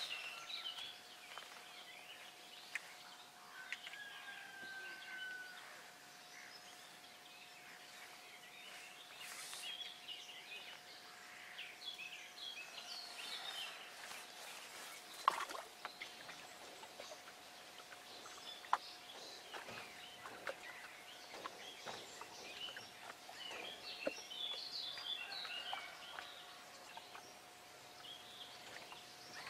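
Faint bird chirps and calls scattered throughout over a quiet outdoor background. A faint steady tone runs underneath, and a few sharp clicks stand out, the loudest about halfway through.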